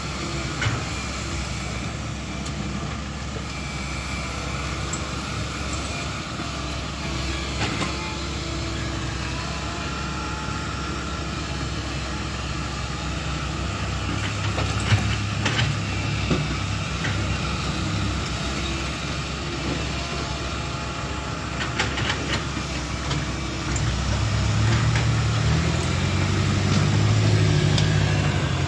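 Komatsu PC128 excavator's diesel engine running as it digs, with a few sharp knocks scattered through. The engine gets louder about three quarters of the way through.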